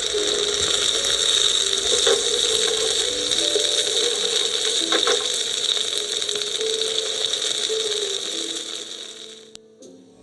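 A loud, steady hiss with faint tones beneath it, fading out near the end.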